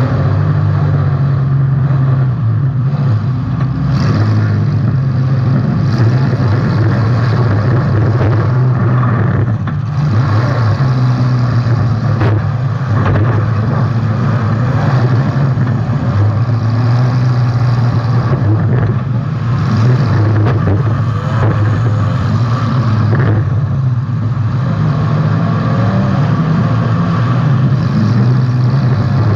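Demolition derby car's engine running loud and revving up and down, with a few short bangs from hits along the way.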